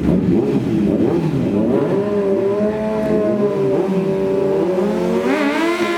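Several drag-racing motorcycle engines running and revving at once, their pitches wandering, with one climbing sharply near the end.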